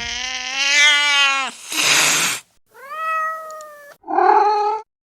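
Domestic cats meowing: one long drawn-out meow, then a short hissy burst of noise, then two shorter meows in quick succession near the end.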